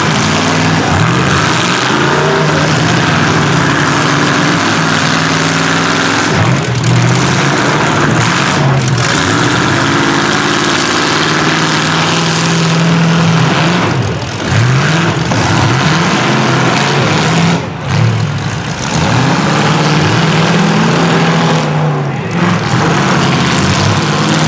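Engines of several demolition-derby small trucks, vans and SUVs running loud and revving up and down at once, their pitches rising and falling over one another.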